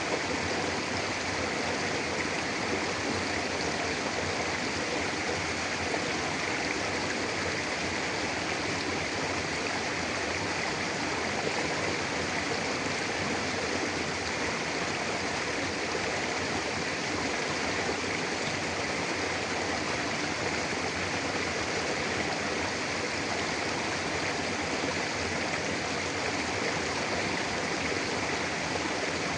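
Mountain river flowing steadily over rocks: an even, unbroken rush of water.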